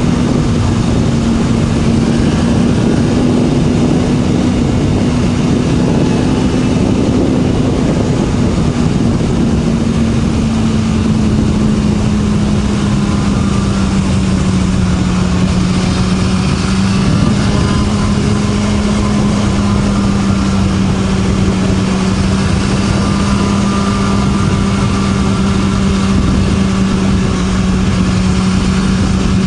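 BMW S1000RR inline-four with an Akrapovic slip-on exhaust running at a steady engine speed on the move, its note easing slightly lower partway through. A constant rush of wind runs underneath.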